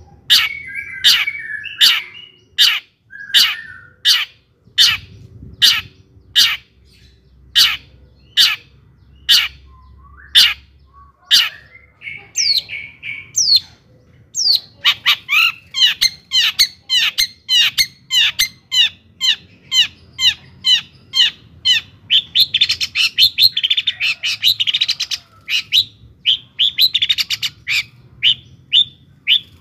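Long-tailed shrike (cendet) singing hard: a string of sharp, falling notes about two a second, which about halfway through turns into a fast, dense chatter of rapid notes.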